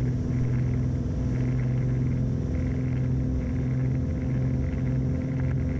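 Beechcraft Baron B55's twin piston engines and propellers droning steadily at takeoff power during the takeoff roll, heard inside the cockpit.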